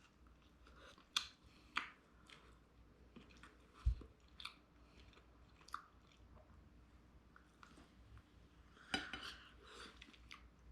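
A person biting into and chewing a crispy air-fried lumpia, with faint scattered crunches. A single low thump about four seconds in.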